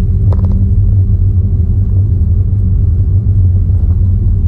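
Steady low rumble of a car idling, heard from inside the cabin, with a few faint clicks about half a second in.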